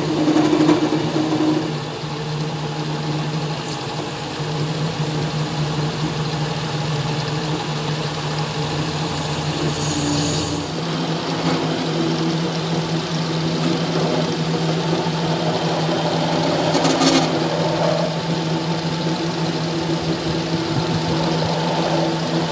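A machine running steadily with a constant low hum, and short spells of harsher, higher noise over it about halfway through and again later.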